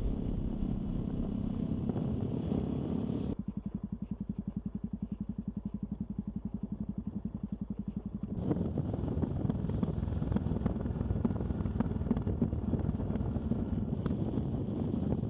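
Yamaha XT660Z Ténéré's single-cylinder engine running on the move with wind and road noise. About three seconds in it drops to a quieter, evenly pulsing beat for about five seconds, then the louder riding noise returns.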